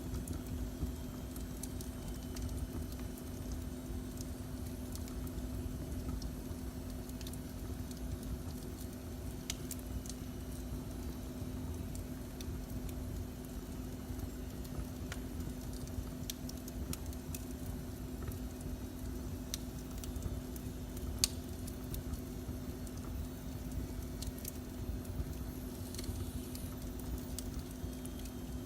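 Wood fire burning in a fireplace: a steady low rumble with scattered sharp crackles and pops, one louder pop about 21 seconds in. A steady hum runs under it.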